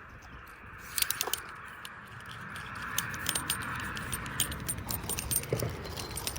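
Irregular light clicking and rattling over a steady hiss, both starting about a second in.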